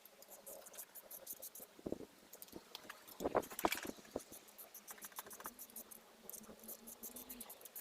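Socket ratchet clicking in quick runs as the cylinder head bolts are undone, with a few louder metallic clinks a little past three seconds in.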